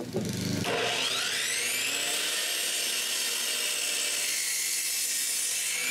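Electric power saw spinning up with a rising whine, then running steadily as it cuts wood.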